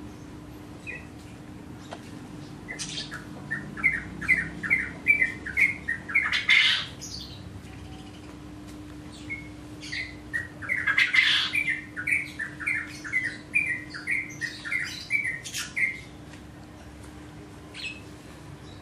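A bird chirping in two long runs of short, quick notes, several a second, with a harsher squawk in each run.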